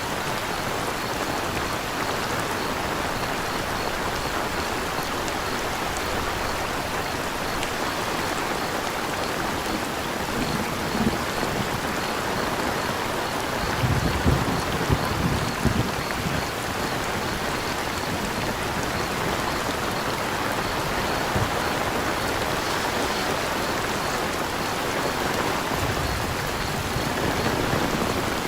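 Steady rain falling and pattering on surfaces, with a faint, regular cricket chirping underneath. A few low thumps come about halfway through.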